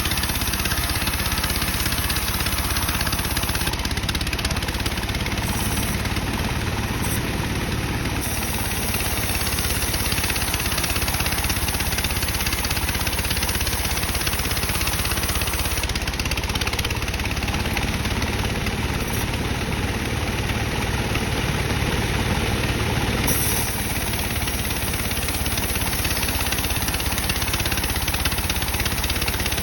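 Sawmill bandsaw running and sawing dry teak timber, a steady mechanical noise with no pauses.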